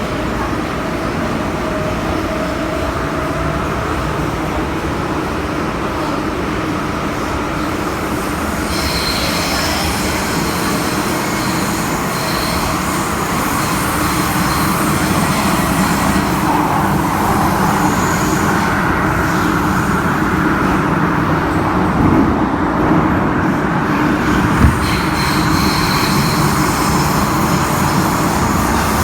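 MTR M-Train electric multiple unit running, heard on board: a steady rumble of wheels and motors that grows slightly louder, with high-pitched wheel squeal about nine seconds in and again near the end. Two brief knocks come a couple of seconds apart late on.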